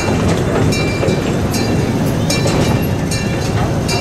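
Open cars of a small amusement-park train rolling slowly along the track: a steady low rumble with short, high squeaks repeating every half second or so.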